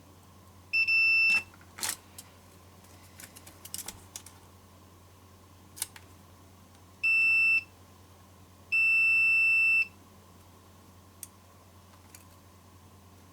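Multimeter continuity beeper sounding three times, two short beeps and then one of about a second, as test probes are touched to the traces of a keyboard membrane. A few light taps come between the beeps.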